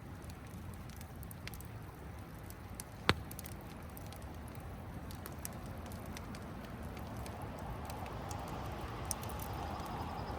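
Campfire crackling with scattered sharp pops and one loud snap about three seconds in, over a steady rushing of river water.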